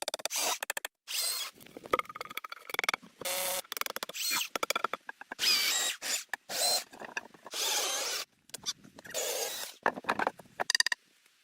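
Quick succession of short bursts of tool work on wood, each under a second and cut off suddenly before the next begins.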